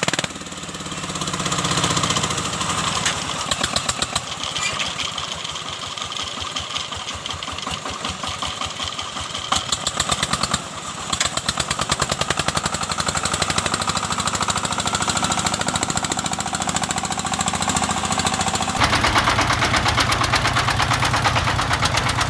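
Diesel engine of a two-wheel walking tractor (power tiller) running with a rapid, even knocking beat. Near the end the sound changes abruptly and becomes louder and deeper.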